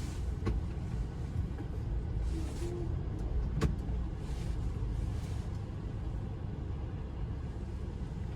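Steady low rumble of a car heard from inside the cabin, its engine running while it waits, with a sharp click about three and a half seconds in.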